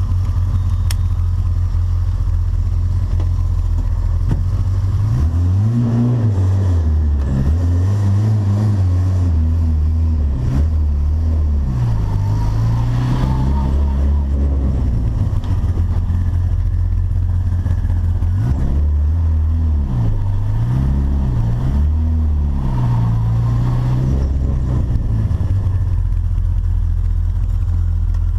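Turbocharged VW Gol engine idling, then revved up and down in two spells of repeated blips, the pitch rising and falling with each, and settling back to idle between them. Turbo flutter is heard as the throttle closes.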